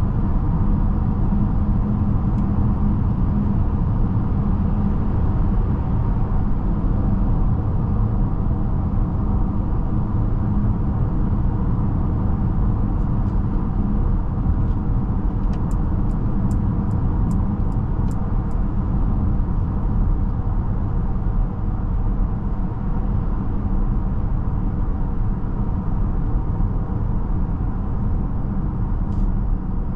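Steady road and tyre rumble inside the cabin of a Mercedes-Benz GLB350 driving along, with a short run of about eight evenly spaced clicks midway through.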